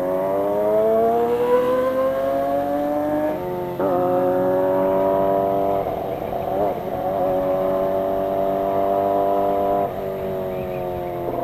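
Kawasaki ZX25R's 250 cc inline-four engine accelerating, its pitch climbing for about three seconds. The revs drop sharply at a gear change, then it runs at a nearly steady pitch. Another brief dip comes near the end.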